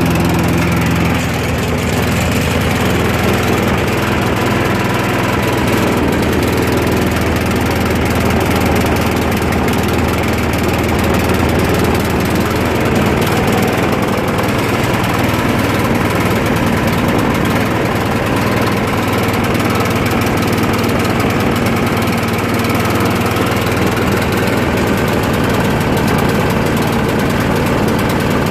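Old petrol lawn mower engine running steadily just after a cold start, on stale fuel after long storage. The owner takes it to need a carburettor clean-out and a new diaphragm, but it runs.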